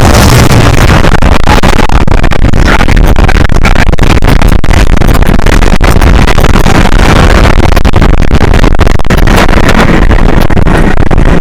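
Intamin launched motorbike roller coaster running at speed along its steel track: a loud, steady rumble and rattle with no let-up.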